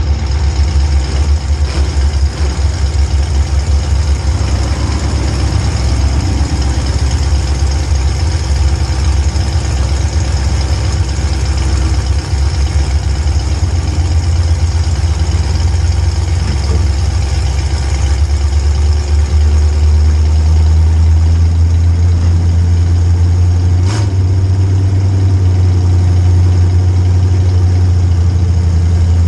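An engine running steadily at idle with a deep, low hum, and a single sharp click near the end.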